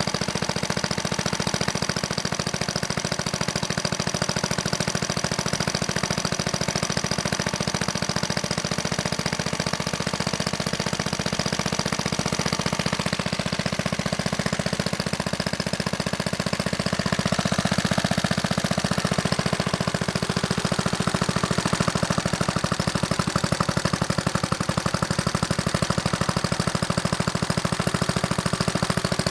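Clinton small gasoline engine running steadily with a rapid, even firing beat, getting a little louder a bit past halfway.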